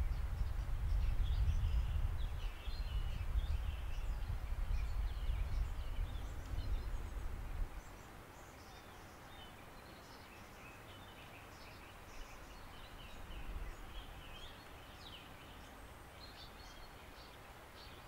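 Woodland songbirds chirping and calling, many short, scattered calls. A loud low rumble covers the first half and stops abruptly about eight seconds in.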